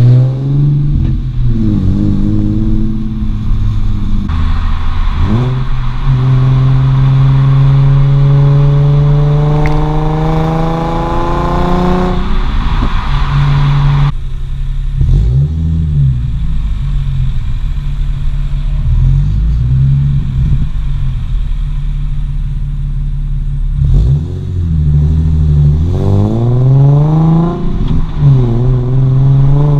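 Nissan 370Z Nismo's 3.7-litre V6 through an aftermarket Invidia Gemini exhaust with high-flow cats, revving up through the gears in repeated rising pulls that drop at each gear change. A long climbing pull about a third of the way in cuts off abruptly, then the engine runs lower and steadier before pulling hard again near the end.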